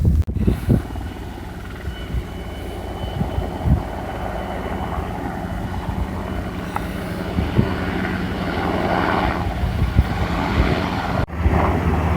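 A low engine drone with a steady pitch that grows gradually louder, as an engine draws nearer.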